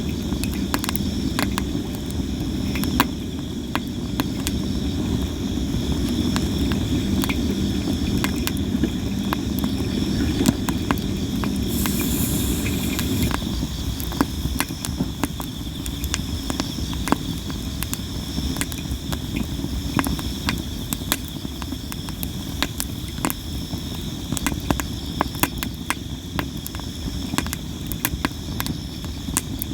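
Sawara (Japanese cypress) firewood burning, crackling and popping constantly with many sharp snaps over a low flame noise, and a brief hiss about twelve seconds in. Insects trill steadily in the background.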